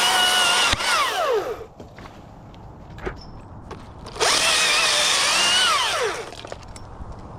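Chainsaw run at full speed, then winding down with a falling pitch, twice: once in the first second and a half, and again from about four to six seconds in.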